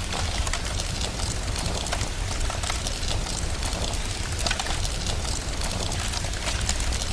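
Steady rain hiss mixed with a crackling fire, many small sharp pops over a continuous low rumble.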